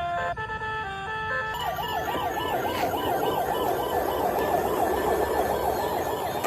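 A short electronic tune of stepped beeping notes, then from about a second and a half in a fast warbling electronic siren that swings up and down about four times a second, typical of a toy emergency vehicle's siren.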